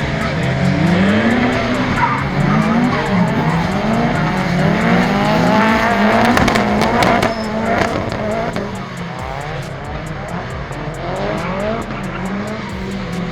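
Performance car engines on track revving up and down over and over, with tyres squealing and skidding.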